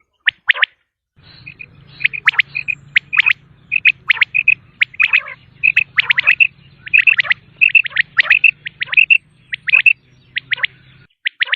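Common quail calling: quick groups of sharp, high, downward-sweeping notes, repeated over and over, with a faint low hum underneath from about a second in until near the end.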